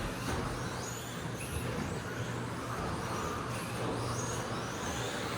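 Pack of radio-controlled stadium trucks with 13.5-turn brushless electric motors racing just after the start: faint high motor whines rising and falling in pitch as they accelerate and brake, over a steady low hum.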